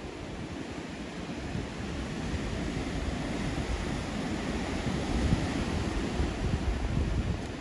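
Outdoor rushing noise with a gusty low rumble, growing louder after about two seconds and easing near the end.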